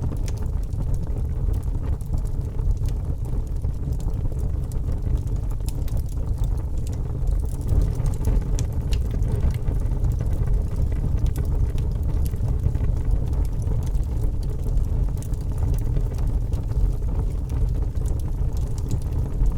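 Wood logs burning in a fireplace: a steady low rumble of flames with scattered small crackles and pops throughout.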